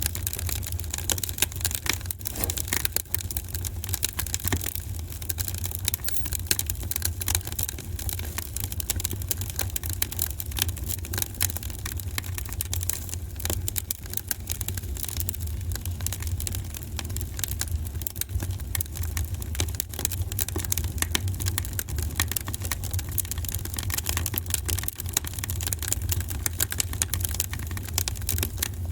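Wood fire in a fireplace crackling: dense, irregular small pops and snaps over a steady low rumble of the flames.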